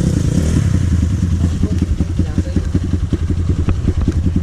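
Dirt bike's engine running steadily at low revs, its firing pulses coming evenly at about eight a second.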